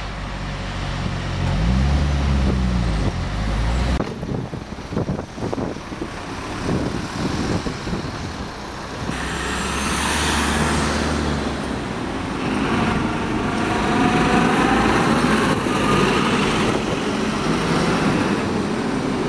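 Bus engines and street traffic: an engine note revs up and back down in the first few seconds, the sound changes abruptly twice, then a rising engine whine comes through steady traffic noise as a bus pulls away.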